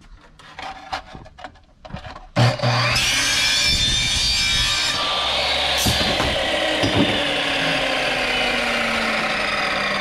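Electric miter saw cutting through 1.5-inch PVC pipe. A few light knocks of the pipe being set against the saw come first, then the saw starts suddenly about two and a half seconds in and runs steadily through the cut. One tone in it slowly falls in pitch over the last few seconds.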